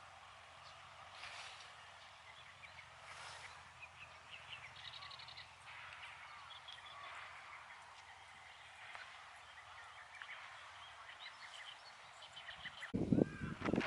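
Wild birds singing and calling, many short chirps and trills, faint and overlapping. About a second before the end the sound changes abruptly to louder, uneven low rumbling noise.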